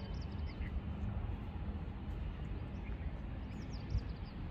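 Outdoor ambience: small birds chirping in short high calls, a few near the start and a few more near the end, over a steady low background rumble.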